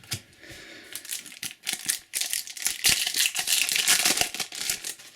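Trading cards and their packet being handled: a dense run of crinkling and rustling with many small clicks, louder from about a second and a half in.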